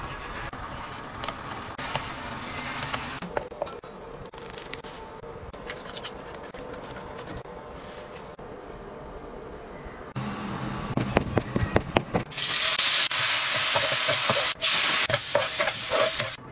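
Scattered light kitchen clicks and knocks. About twelve seconds in, a loud steady sizzle starts as chopped chilies are stir-fried in hot oil in a wok and stirred with a spatula.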